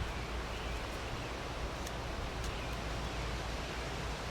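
Steady background hiss with a low rumble, and a few faint light ticks of a carving knife cutting into wood.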